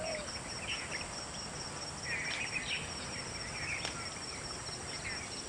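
Wild birds giving short, scattered chirps over a steady high-pitched insect trill and a background hiss.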